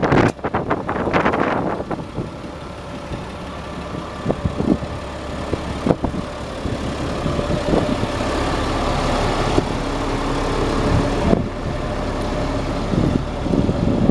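1999 GMC 7500 truck's engine idling steadily, with a few loud bumps in the first two seconds.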